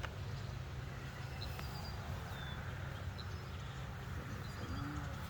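Outdoor ambience: a steady low hum with short, high bird chirps every second or so.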